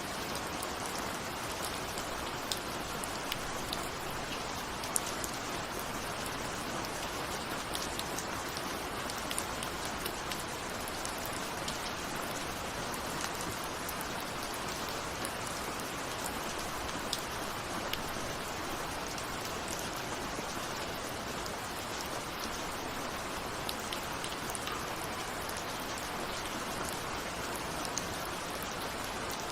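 Steady rain with raindrops pattering on a window, a constant hiss with many small drop ticks scattered through it.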